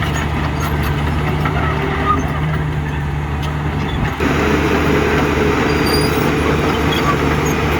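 Diesel engine of heavy construction machinery running steadily. About four seconds in, the sound switches abruptly to a slightly louder, busier engine noise.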